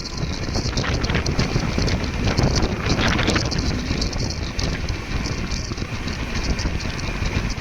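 Passenger train running at speed, its wheels clattering over the rails in a dense run of knocks that thickens about three seconds in, with wind rushing on the microphone.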